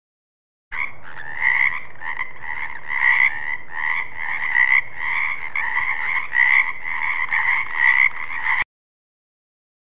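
Frogs croaking in a dense run of repeated calls. The sound starts abruptly about a second in and cuts off sharply near the end.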